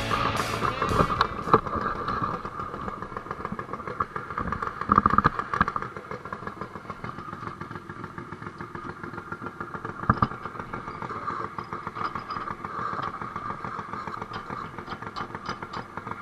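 A garden tractor engine running steadily at idle, with a louder stretch about five seconds in and a short knock about ten seconds in.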